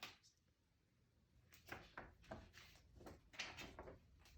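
Faint rustles and soft taps of a picture book being handled as its page is turned, in several short bursts.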